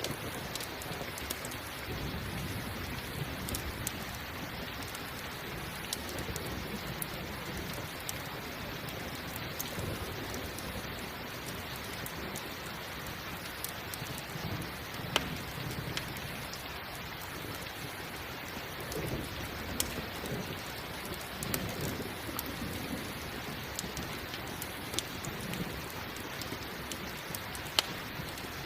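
Steady rain falling, with a campfire crackling and popping sharply now and then, and low rumbles of thunder rolling in a few times.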